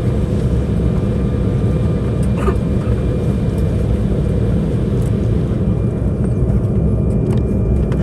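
Steady low cabin rumble of an Embraer 190 airliner on the ground after landing, its two GE CF34 turbofans running and the airframe rolling, with a few faint ticks above it.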